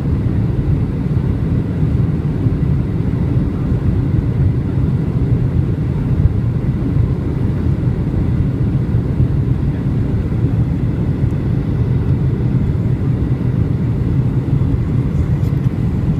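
Steady low rumble inside the passenger cabin of a Boeing 737-800 airliner, with no distinct tones or changes.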